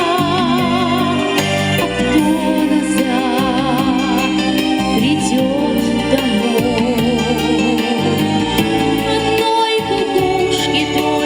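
Music: a song with a woman singing long notes with vibrato over a steady, keyboard-like backing accompaniment.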